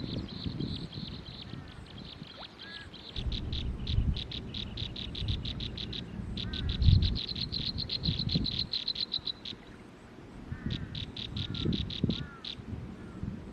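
Nestling birds begging: rapid trains of short, high chirps, many a second, coming in bursts of a few seconds with brief pauses between, over a low rumbling noise.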